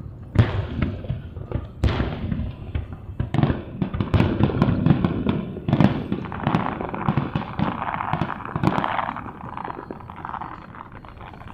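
Aerial fireworks bursting: a rapid series of sharp bangs and booms with crackling. From about six seconds in, a denser crackling hiss joins the bangs.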